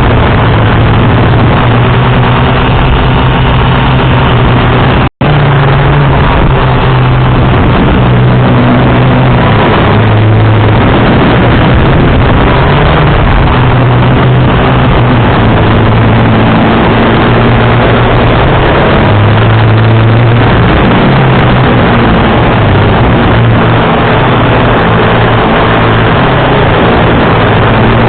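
Onboard audio of a 450-size FPV quadcopter in flight: heavy wind rush over the microphone, with the motors' low hum stepping up and down with throttle. The sound cuts out for an instant about five seconds in.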